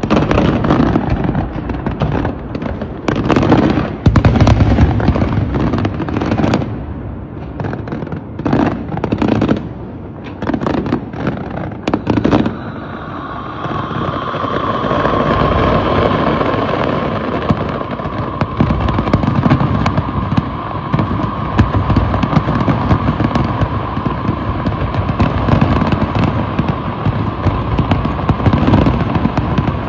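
Fireworks going off: a run of separate sharp bangs for about the first twelve seconds, then a dense, unbroken crackle with a steady tone running through it.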